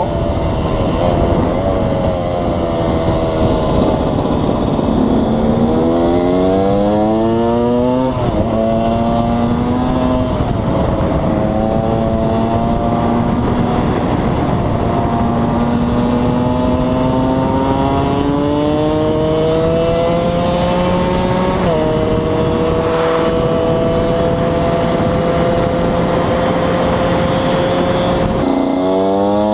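KTM 125 EXC two-stroke single-cylinder engine under way, pulling through the gears: its pitch climbs, drops at each upshift, holds steady for several seconds at a cruise, then climbs again near the end. The owner says this engine is a bit tired and down on power after many hours.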